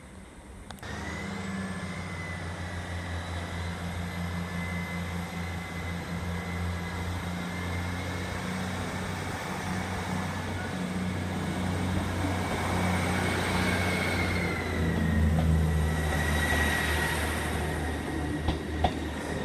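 Diesel train engine running with a steady low hum and a thin high whine, starting suddenly about a second in and growing louder towards the end, with two sharp clicks near the end.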